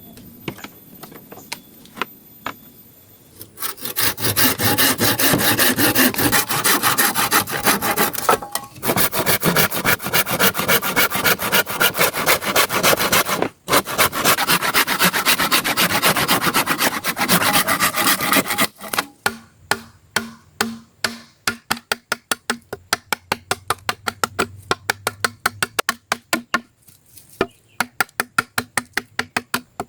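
A hand saw cutting through wood in quick back-and-forth strokes, stopping briefly twice. In the last third the strokes become slower and separate, about three or four a second.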